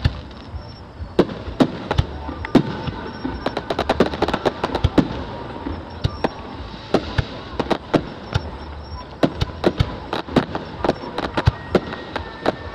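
Fireworks display: aerial shells and rising comets going off in a rapid, irregular series of sharp bangs and crackles, with dense volleys a few seconds in and again near the end.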